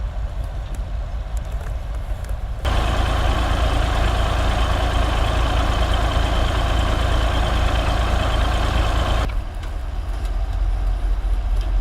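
Heavy diesel engines of recovery vehicles running. About three seconds in, a much louder, harsher engine sound starts abruptly. It holds steady for about six seconds, then drops back to a lower rumble.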